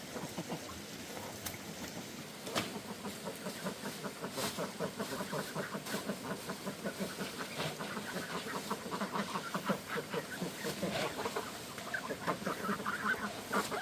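Domestic fowl calling: many short clucking calls in quick succession, getting busier and louder toward the end, with a few sharp knocks among them in the first half.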